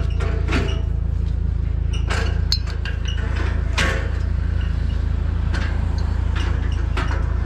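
Pickup truck running, a steady low drone throughout, with scattered short clicks and knocks over it.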